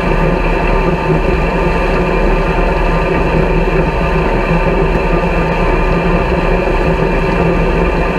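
Combine harvester running steadily under load, a constant engine and machinery drone with a low hum and several steady tones.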